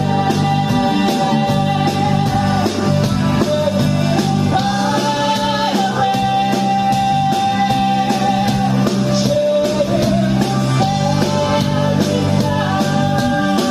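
Rock song played by a band: a singer holding long notes over bass, guitar and steady drums.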